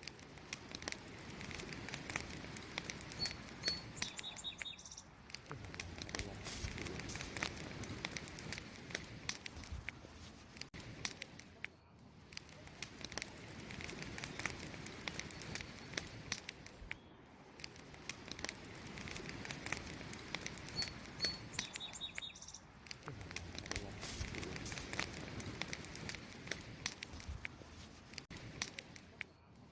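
Wood campfire crackling and popping continuously, with a pair of short high bird chirps about 3 seconds in and again about 21 seconds in.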